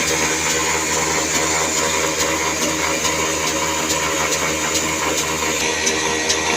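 Old 24 hp 'desi' black diesel engine running steadily, with a faint regular beat over a constant mechanical drone.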